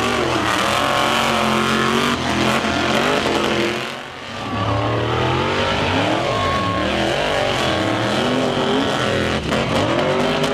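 Monster truck engine running hard under repeated throttle, its pitch rising and falling again and again. The power drops off briefly about four seconds in, then it revs back up.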